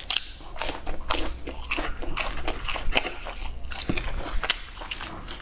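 Close-miked biting and chewing of a fried, spice-coated sausage: a fast, irregular run of short clicks from the mouth.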